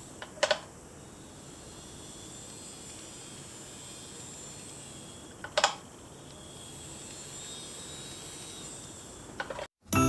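Faint steady hiss broken by three short, sharp clicks: one about half a second in, one about five and a half seconds in, and one near the end.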